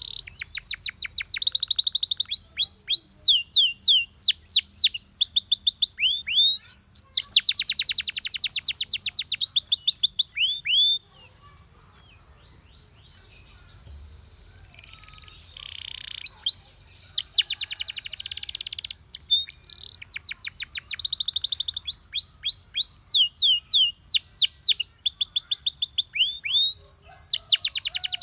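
Domestic canary singing: rapid trilled phrases of repeated high sweeping notes, one roll after another. It breaks off about eleven seconds in, starts again softly a few seconds later and builds back to full song.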